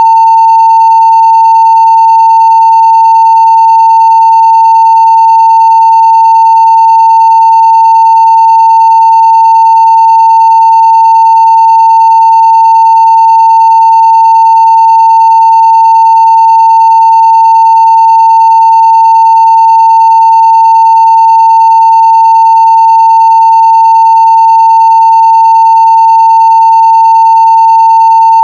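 A steady 900 Hz sine-wave test tone at full scale (0 dB), loud and unbroken, with faint higher overtones.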